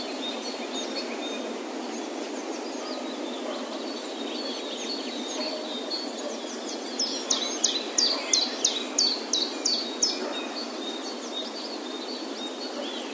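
Songbird chirping with short, high, falling notes over a steady background hiss of outdoor ambience. About halfway through comes a louder run of about eight quick falling notes over some three seconds.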